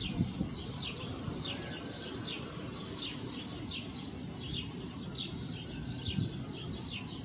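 A small bird chirping over and over, short falling chirps about two a second, over a low steady rumble of outdoor background noise.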